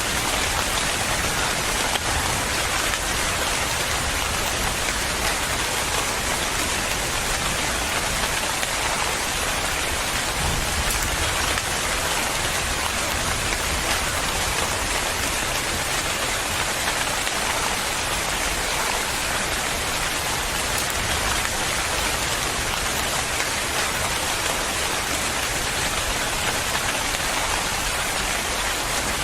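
Steady rain falling, a constant dense hiss of drops striking a surface.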